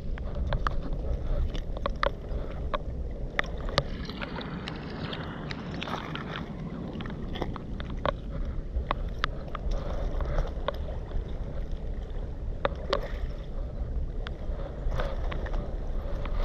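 Scattered sharp clicks and crunches of stones and pottery shards on a river foreshore, over a steady low rumble of wind and lapping water.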